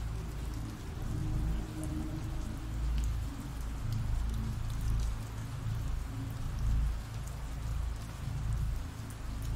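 Steady rain falling, with a deep low rumble underneath that swells and fades.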